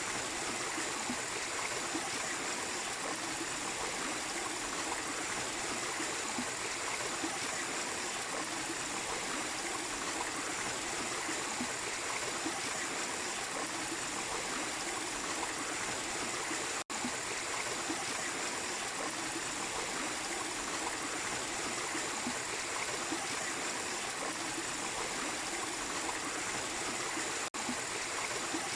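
A small waterfall splashing and running steadily. The water noise is broken twice by a split-second dropout, about seventeen seconds in and near the end.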